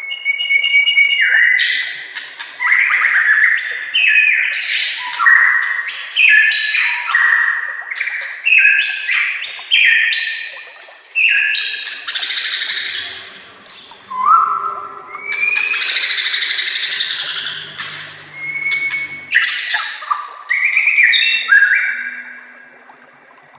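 White-rumped shama (murai batu) singing a long, varied song: quick whistled phrases that jump from pitch to pitch, broken by harsh rasping notes about halfway through, with a short pause near the end.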